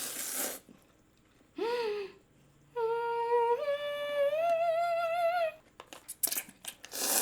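A woman humming 'mmm' in enjoyment while eating: first a short 'mm', then a long hummed 'mmm' that steps up in pitch about halfway and wobbles. Short breathy noises come at the start and near the end, with a few light clicks.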